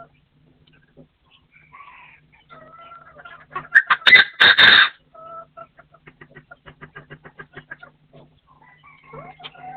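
Wild game bird calling: scattered short notes, then a loud, harsh two-part call near the middle, followed by a fast run of clucking notes at about eight a second.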